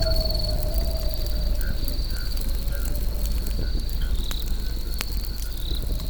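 Campfire crackling, with scattered sharp pops over a steady low rumble. Insects trill steadily at the same time.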